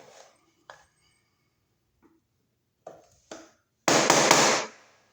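A few light clicks and scrapes of a metal tool against a painted receptacle cover-plate screw, then one loud, short scrape about four seconds in, as the paint is dug out of the screw head's slot.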